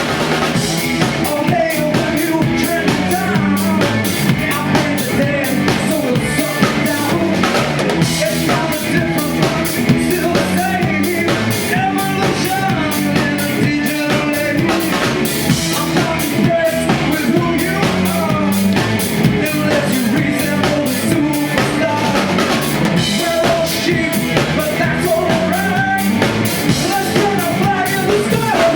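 Rock band music: a full drum kit keeping a steady beat under guitar and bass, with a voice singing over it at times.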